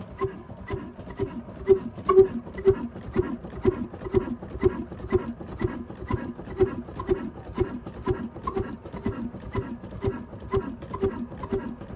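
Old black diesel engine running slowly, its exhaust beat thumping evenly about twice a second.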